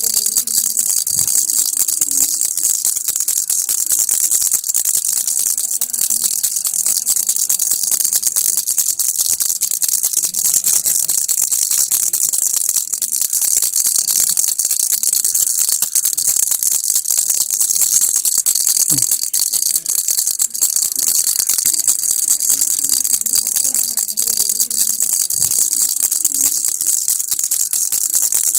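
Baby rattle (kilukki) shaken continuously: a fast, dense, unbroken rattle of small beads or pellets inside the toy, steady in loudness throughout.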